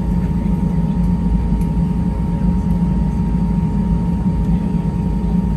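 Steady cabin noise inside an Airbus A320-200 on the ground after landing: a heavy low rumble with a thin, steady whine held above it.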